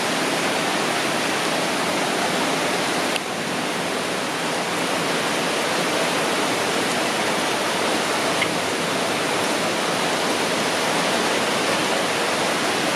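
Rain falling steadily, an even dense hiss, dipping slightly about three seconds in.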